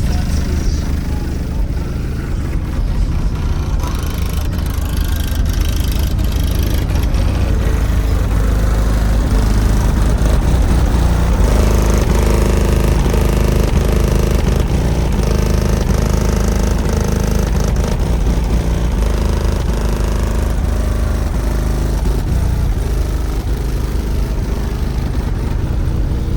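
Car subwoofers playing bass-heavy music at high volume, a heavy, steady low bass that dominates the sound, with a melody or rattle in the mid range coming and going in the middle.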